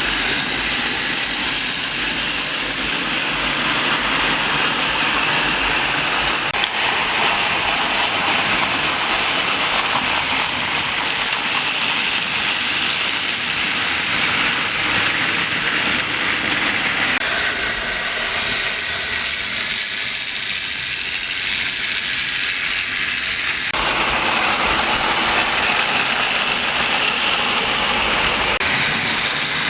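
Model trains running on the track: a steady mechanical hiss and rattle of motors and wheels, its character changing abruptly about 17 and 24 seconds in.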